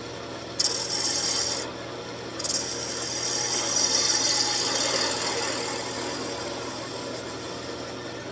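Turning tool cutting a spinning wooden table-leg blank on a wood lathe, a dry shaving hiss over the lathe's steady hum. A short cut comes about half a second in, then a longer cut that swells and slowly fades toward the end.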